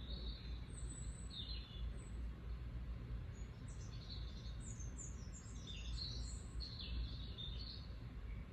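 Birds chirping: many short, high chirps, sparse at first and busier from about three and a half seconds on, over a steady low rumble.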